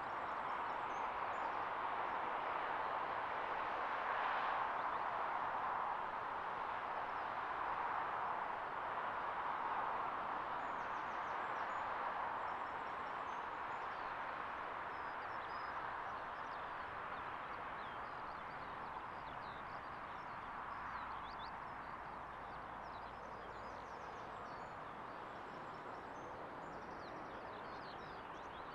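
Distant jet aircraft noise, a steady rushing sound that slowly fades away as the aircraft moves off. Small birds chirp faintly in the second half.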